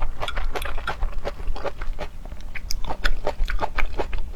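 A person chewing seafood: a quick, irregular run of wet smacks and clicks from the mouth.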